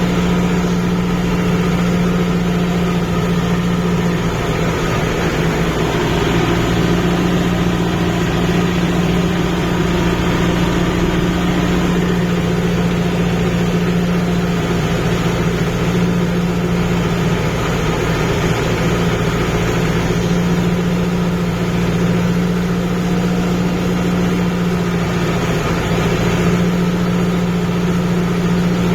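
A Kubota MU5502 tractor's four-cylinder diesel engine runs at a steady speed, a constant drone that neither rises nor falls, while the tractor works a muddy paddy field.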